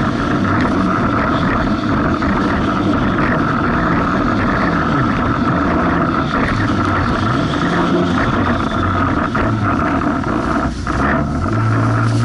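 Jet ski engine running under way through rough, choppy water, its pitch rising and falling as the craft rides the waves, over a steady rush of wind and water. Just before the end it dips briefly, then settles into a steadier, stronger note.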